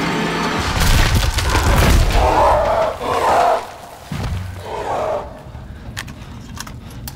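Film sound effects: a heavy low rumble with crashing booms for about three and a half seconds, a few loud mid-pitched bursts, then scattered sharp knocks and clicks.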